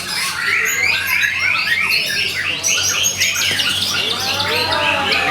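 White-rumped shama (murai batu) singing a fast 'kretekan' rattle: many short chirps repeated several times a second, with lower sweeping whistles joining about four seconds in.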